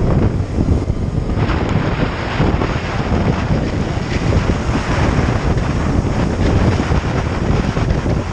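Wind buffeting the microphone of a moving motorcycle: a steady, loud rush of noise, heaviest in the low end, that grows brighter a little over a second in.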